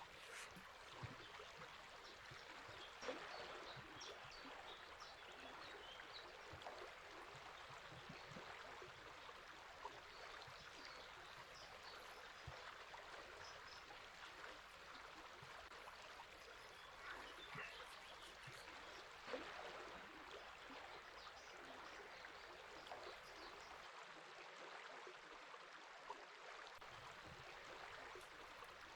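Faint, steady rush of a river or stream, with scattered faint bird chirps.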